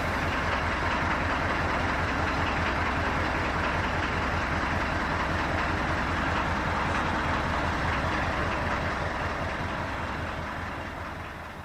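Narrowboat's diesel engine running steadily under way, with a fast, even beat and a low hum; it fades out near the end.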